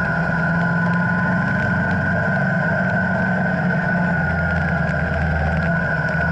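Motorcycle engine running at a steady pitch, with a steady high tone above it.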